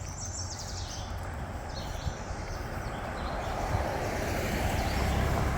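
A motor vehicle approaching, its engine and road noise growing steadily louder toward the end. Birds chirp faintly over the first two seconds.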